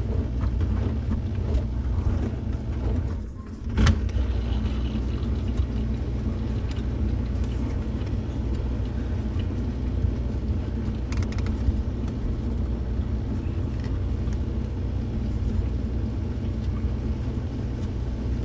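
Truck driving: a steady low engine and road rumble, with a short drop in level and a single knock about four seconds in.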